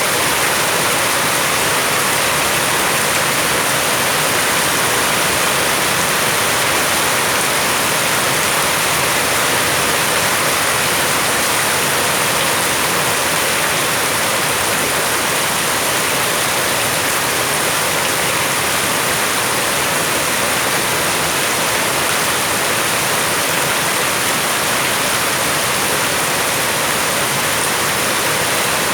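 Heavy rain falling steadily in front of a house, an even hiss with no single drops standing out.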